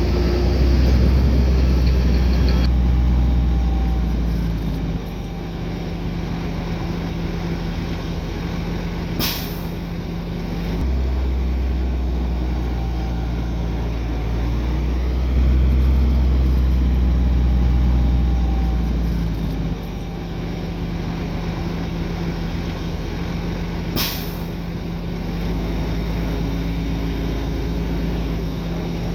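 Heavy diesel earthmoving machinery running, the deep engine note swelling and easing as the load changes. Two brief sharp sounds cut in, about nine seconds in and again about twenty-four seconds in.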